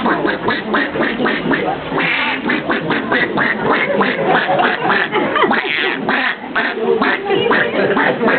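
A man imitating a duck with his voice: a rapid, continuous series of quacks, several a second.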